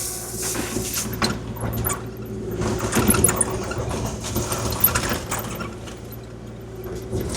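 Kubota KX040-4 mini excavator's diesel engine running steadily, with a scattered clatter and scrape of gravel as the bucket spreads and grades it.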